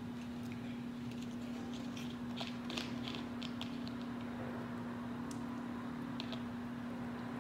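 Seafood being eaten close to the microphone: a run of short wet smacks and clicks from mouth and hands, bunched in the middle with a couple more near the end, over a steady low hum.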